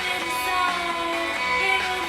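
A song with guitar accompaniment and a sung melody of long, held notes.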